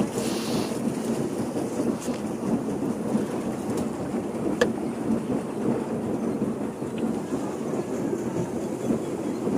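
Steady churning rumble of a pedal boat underway, its paddle wheel working the water and its pedal mechanism rattling, with one sharp click about halfway through.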